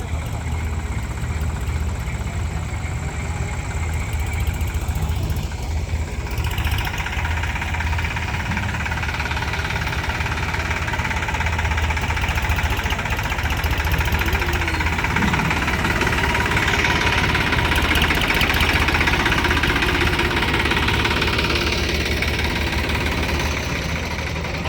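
Diesel engine idling steadily throughout. About six seconds in, a combine harvester's rushing machine noise joins it, grows louder to its peak a little past the middle, then eases off near the end.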